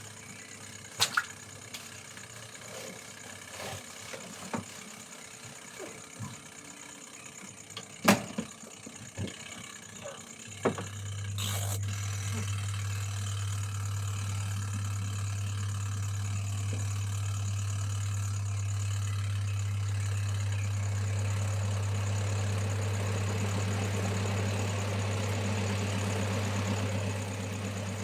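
A few sharp knocks and clicks of handling, then a washing machine's motor starts about a third of the way in: a steady low hum, with a rougher churning noise building over it later on. Insects chirr steadily and high throughout.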